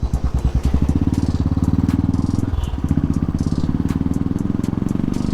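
Royal Enfield Bullet's single-cylinder engine running loud through a tapered exhaust with the muffler removed, in a fast, even thumping beat. The beat drops out briefly about two and a half seconds in, then picks up again.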